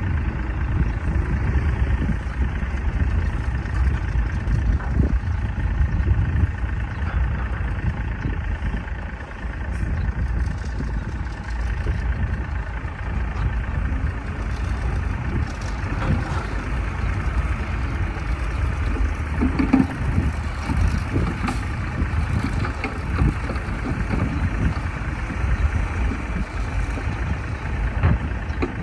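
Heavy diesel earthmoving machinery running steadily, with a few short clanks along the way.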